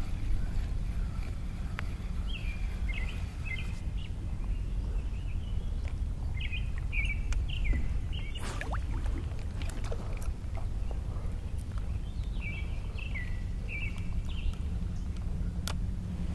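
Songbird phrases of quick chirps and downward slurs come in short bursts every few seconds over a low, steady rumble. A few sharp clicks and knocks from the canoe and fishing gear are scattered through.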